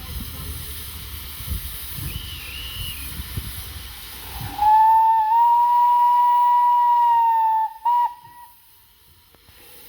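Steam whistle of the 1909 Buffaud-Robatel 031T tank locomotive No. 3714, one long steady blast of about three seconds and then a short toot, given as the departure signal. Before the whistle, steam hisses over a low rumble.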